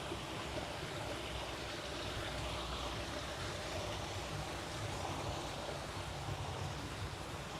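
Steady outdoor night ambience: an even rushing hiss over a low rumble, with no distinct events.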